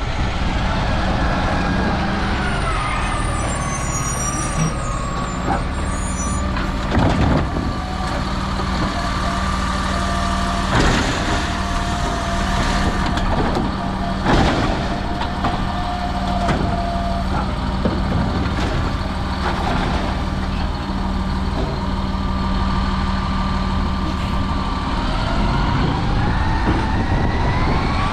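Autocar recycling truck with a Labrie Automizer side-loader body, running hard with a steady whine. Its pitch drops at the start, holds through the middle and climbs again near the end, with a few sharp clunks in between.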